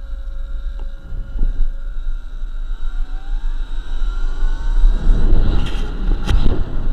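Electric dirt bike riding along: a thin motor whine rising in pitch as it speeds up, under heavy wind buffeting on the microphone, with rougher riding noise near the end.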